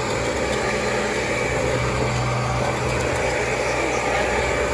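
Kirby G4 upright vacuum cleaner running steadily: a constant motor hum under an even rush of air.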